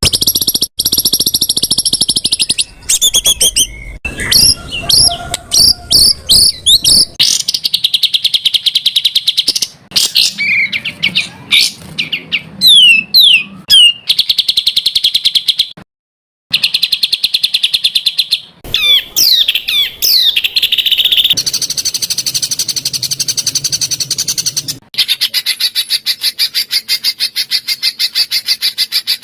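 Songbird song of the kind used as masteran training material: dense, rapid-fire chirps, trills and sweeping whistled notes, in segments that change abruptly every few seconds with a brief silence about halfway through. A long fast string of repeated notes fills the last few seconds.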